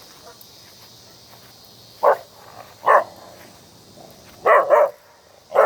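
Dog barking: five short barks starting about two seconds in, an alert bark at geese and people across the lake, over a faint steady chirring of insects.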